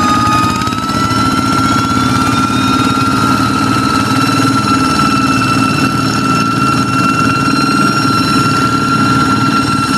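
Kubota-engined hand tractor running steadily, its engine beat overlaid by a high, jet-like whistle. The whistle rises slightly about half a second in, then holds its pitch.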